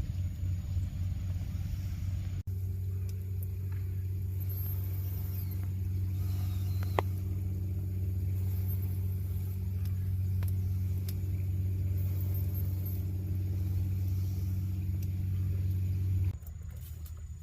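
Steady low mechanical hum, like an idling engine. It drops out for an instant about two and a half seconds in and weakens near the end, where a few light clicks follow.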